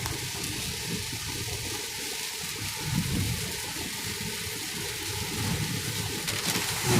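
Steady hiss of heavy rain and tyre spray on a wet road, heard from inside a moving car.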